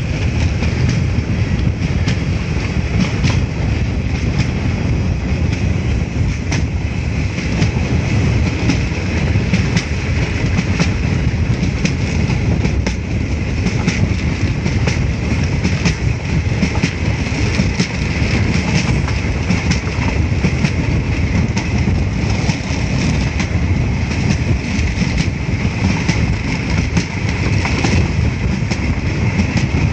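Coaches of the 16233 Mayiladuthurai–Trichy express running at speed, heard from the open side of a moving coach: a steady loud rumble with fast clickety-clack of the wheels over the rails.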